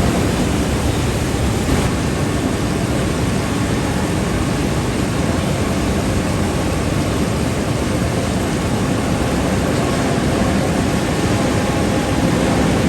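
Loud, steady noise of heavy steel-mill machinery running, an even rumble and hiss with a faint hum underneath.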